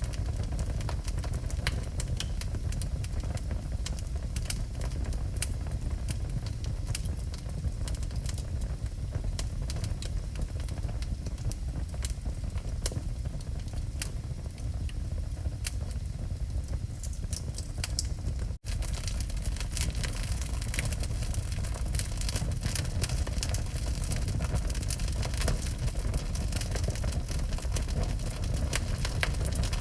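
Wood fire burning in a fireplace: continuous crackling and popping over a steady low rumble of the flames. A momentary cut about two-thirds through, after which the crackling is denser and brighter.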